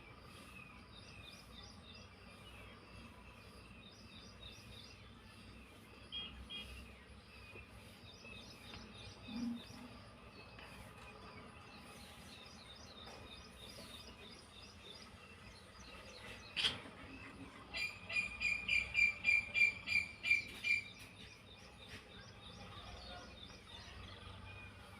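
Small birds chirping steadily in the background. About two-thirds of the way in there is a sharp click. Then a nearby bird gives a fast run of about a dozen loud, high calls lasting about three seconds.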